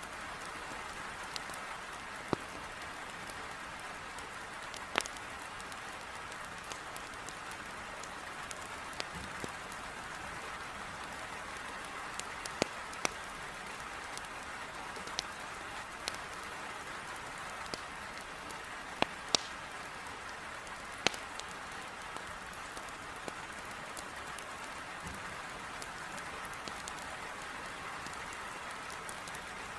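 Heavy rain beating on a window as a steady hiss, with sharp, irregular pops and crackles from burning firewood in a fireplace, some fifteen in all, the loudest near the middle.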